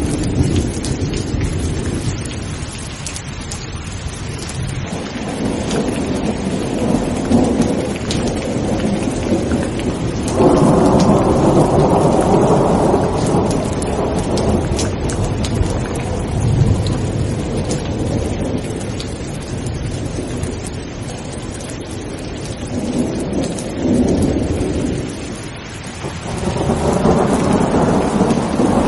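Steady heavy rain with rolling thunder. A loud rumble breaks in sharply about ten seconds in and fades over several seconds, and more rumbles swell up near the end.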